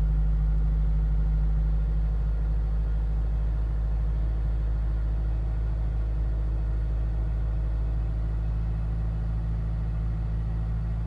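Supercharged Mazda MX-5 four-cylinder engine idling steadily with a high-hanging idle, which the owner suspects comes from a vacuum leak.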